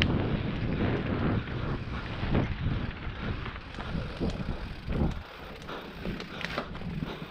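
Mountain bike riding down a dirt forest trail: wind rushing over the microphone with tyre rumble and scattered rattles from the bike. The low rumble drops away about five seconds in.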